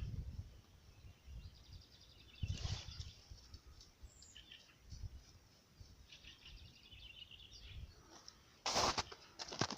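Small songbirds trilling, several short trills through the middle, over a low uneven rumble. A loud rustling crunch comes near the end.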